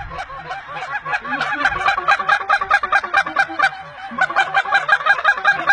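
Geese calling in a rapid, steady run of short honks and yelps, several calls a second.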